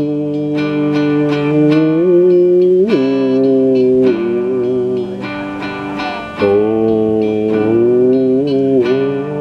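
Music: guitar playing long held notes that slide in pitch every few seconds over a sustained lower note.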